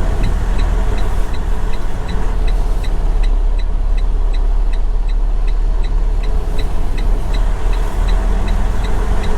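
Semi-truck tractor's diesel engine running with a steady low rumble, heard from inside the cab, with an even rapid ticking of about three ticks a second throughout.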